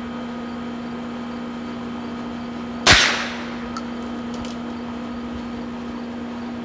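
A single shot from a Heritage Rough Rider .22 rimfire single-action revolver, about three seconds in: one sharp crack with a short echoing tail. Two faint clicks follow about a second later.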